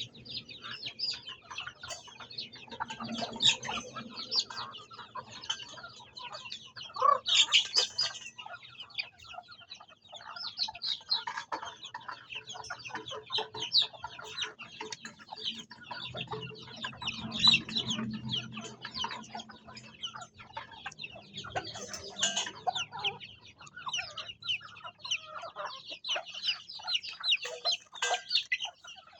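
Chickens and chicks calling together: a continuous chatter of clucking with many quick high chirps.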